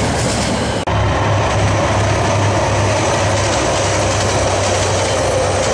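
Freight train passing, its wagon wheels running on the rails. After a short break about a second in, diesel locomotives hauling a container train with a steady low engine hum under the rail noise.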